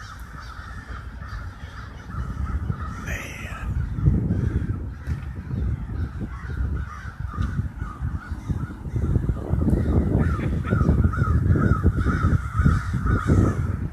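A huge flock of crows cawing continuously overhead, many calls overlapping, over a low rumble.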